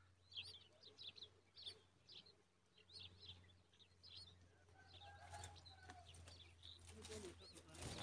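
Common babblers chirping faintly: quick, short, high chirps several times a second, thinning out after about four and a half seconds, with some soft rustling near the end.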